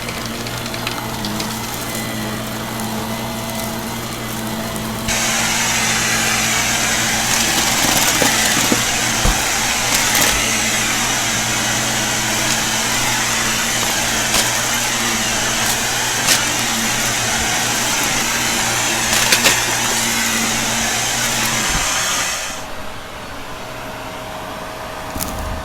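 Vacuum cleaner running, with scattered clicks of grit being picked up. Its rushing sound gets louder and brighter about five seconds in, and drops back a few seconds before the end.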